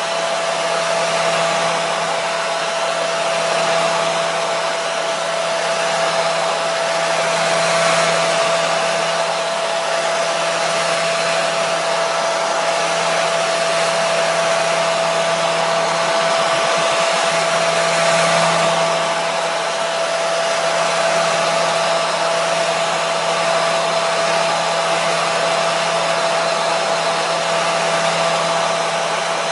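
Hair dryer running steadily: an even rush of air with a constant motor whine, played as white noise for soothing a baby.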